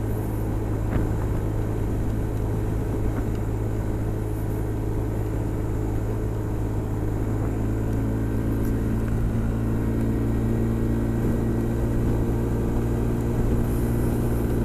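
Honda SH 300i scooter's single-cylinder engine running steadily at cruising speed, with wind and road noise. A second set of steady hum tones comes in about halfway through.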